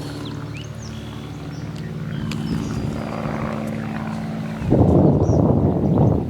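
A steady, even engine drone with a few faint bird chirps above it. About three-quarters of the way through, a loud rush of wind on the microphone covers it for about a second and a half.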